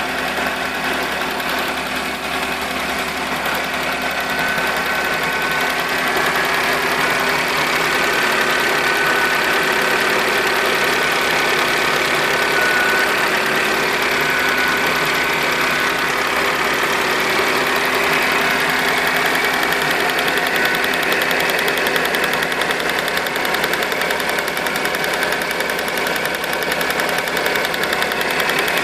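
Car engine idling with a steady, rapid ticking knock, which the owner attributes to the evaporative-emission canister purge valve clicking.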